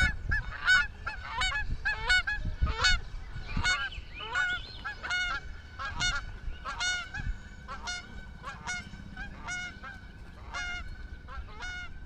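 Geese honking over and over, about two calls a second, growing somewhat fainter in the second half.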